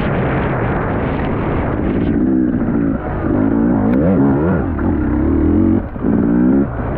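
Motocross bike engine revving hard, its pitch rising and falling as the throttle is worked, with short drops in power about three seconds in and again near six seconds.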